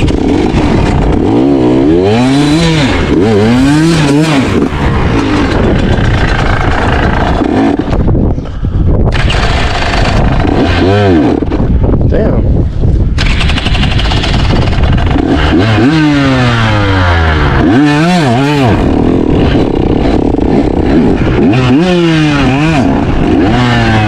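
Dirt bike engine being ridden hard, its pitch rising and falling again and again as the throttle is opened and closed, with wind noise on the microphone.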